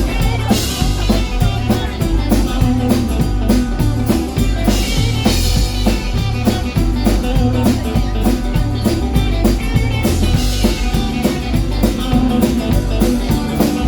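Rock band playing an instrumental passage with a steady drum-kit beat and guitar, no singing.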